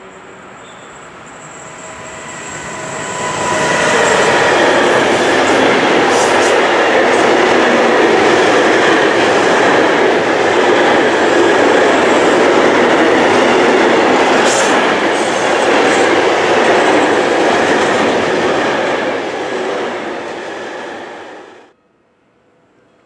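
Freight train of container wagons passing close by: the rumble of wheels on the rails builds over the first few seconds, holds loud and steady as the wagons roll past, then cuts off suddenly near the end.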